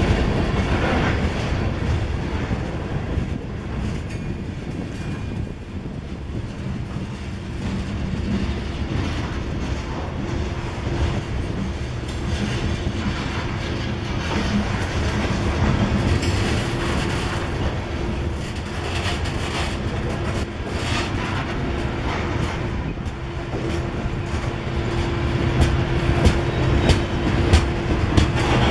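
Freight train of grain cars rolling past, a steady rumble with the wheels clicking over the rail joints.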